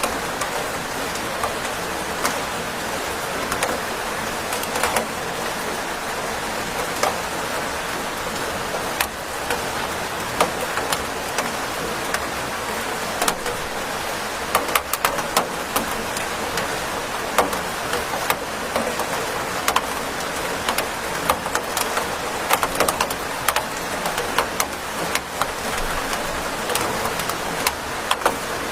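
Steady rain falling: an even hiss with frequent sharp taps of single drops striking a surface, the taps coming thicker about halfway through.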